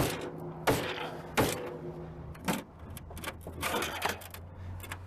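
Hand tools striking and clanking on a car's metal parts: three sharp knocks about two-thirds of a second apart, each with a brief metallic ring, then another knock and a quick run of lighter clinks. A low steady hum comes in about halfway.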